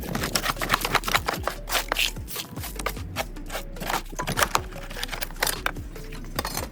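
A quick, irregular run of sharp clicks, knocks and scrapes from hand-tool work on a wooden door frame, several strokes a second.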